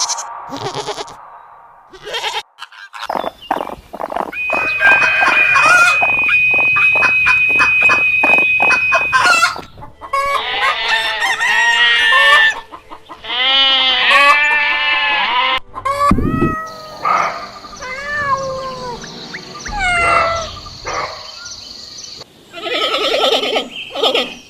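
Chickens clucking and calling in several separate recordings played one after another, each starting and stopping abruptly.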